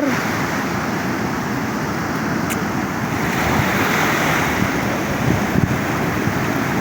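Sea surf washing steadily onto the shore, with some wind buffeting the microphone.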